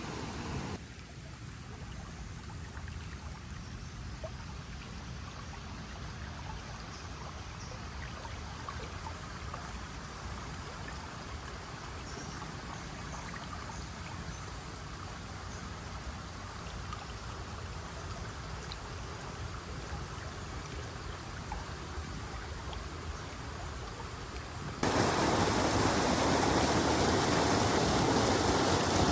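Steady rushing of flowing water with faint scattered clicks. About 25 seconds in it cuts abruptly to a much louder, fuller rush of water.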